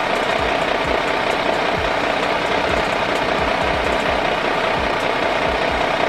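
A small motor running steadily, with a constant whine over a rattly hum.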